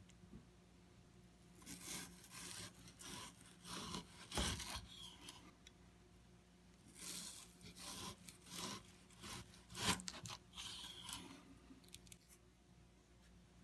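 A series of short, irregular scraping strokes, the loudest about four and ten seconds in, over a faint steady hum.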